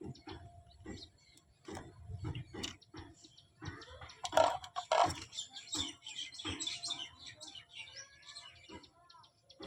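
Birds chirping and calling in the background, with a busy stretch about halfway through, over a run of small clicks and taps from handling the unboxed toy kitchen pieces.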